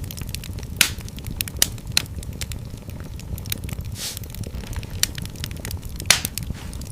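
Wood fire in a fireplace crackling, with irregular small snaps over a low steady rumble of flames and a few sharper pops, the loudest near the end.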